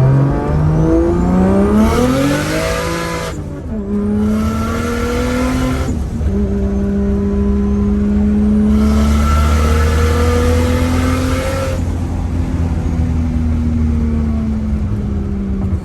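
A car engine accelerating hard, its revs climbing and dropping sharply as it shifts through the gears. A loud rushing noise swells three times over the engine note.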